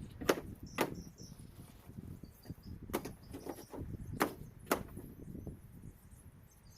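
Irregular sharp knocks of hand tools striking and prying at decking timber, several of them in pairs about half a second apart, over a low rumble.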